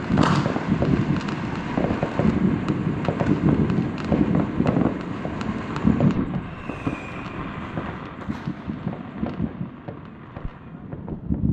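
Fireworks going off in rapid succession, a dense run of bangs and crackles with a strong bang right at the start. A brief whistle rises above them about seven seconds in, and the bangs thin out over the last few seconds.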